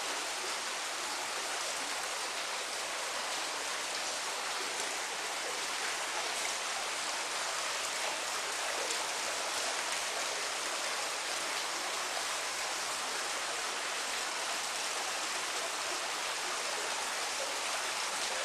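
Steady rain, an even hiss with no change through the stretch.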